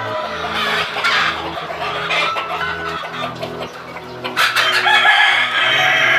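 Indonesian kampung (village) chickens clucking, with a rooster crowing in the second half, over background music with a steady bass line.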